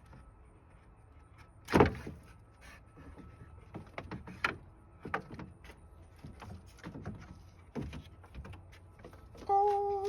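Scattered knocks and clicks of car parts being handled while a radiator is removed, with one loud clunk about two seconds in. Near the end a person gives a drawn-out "oh".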